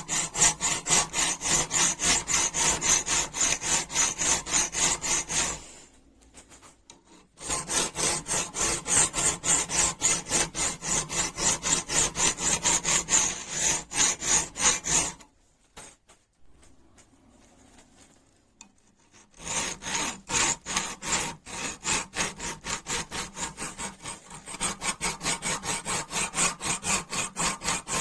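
Fast, even back-and-forth scraping strokes of hand abrasion on a rusty metal wrench, several strokes a second, stopping briefly twice.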